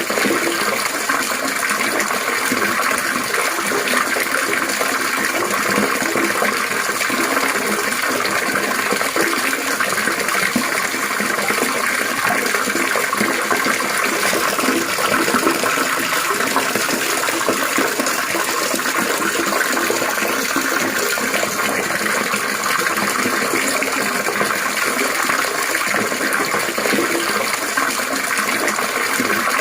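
Water trickling and splashing in a steady, unbroken babble.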